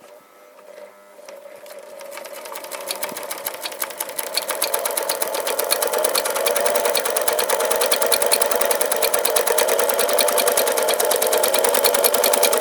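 Messerschmitt CL 54 zigzag sewing machine stitching on a test run after threading. It starts slowly, speeds up over the first few seconds, then runs fast and steady with a rapid, even clatter over its motor hum.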